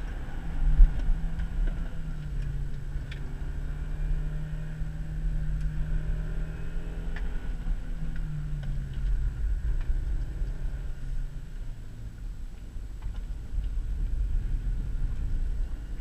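Cabin sound of a 2000 Subaru Legacy GT's flat-four engine being driven on a winding road, with a low road and tyre rumble. The engine note holds steady, then drops about halfway through as the revs fall. A thump about a second in.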